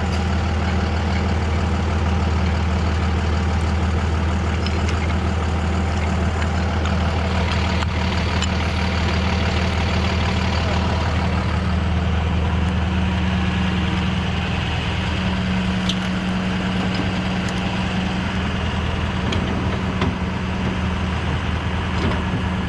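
Truck engine running steadily at a low idle-like hum during a winch recovery, the note shifting slightly about two-thirds of the way through.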